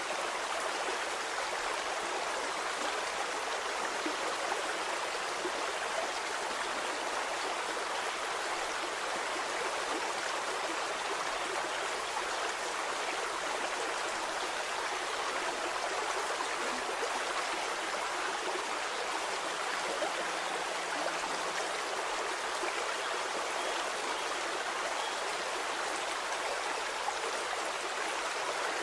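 Stream water flowing and babbling steadily over stones, an even rushing hiss with fine trickles and splashes.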